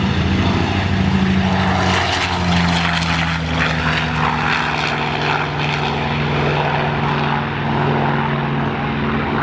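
Radial-engined propeller warbird flying past, its engine running steadily, with a slight drop in pitch about two seconds in.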